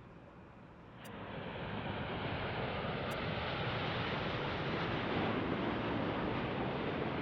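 Jet airliner engine noise swelling about a second in, then holding as a steady rush.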